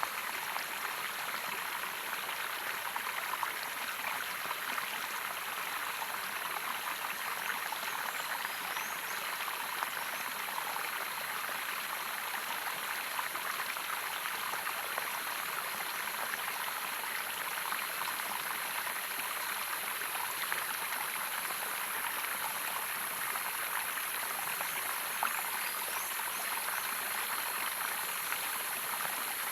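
Running water of a waterfall, a steady, even rush with no breaks.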